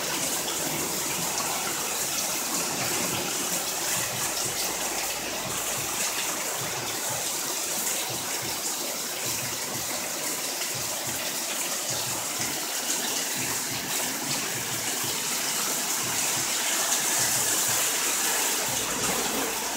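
Heavy rain pouring down onto a wet street and parked cars: a steady, dense hiss of splashing water.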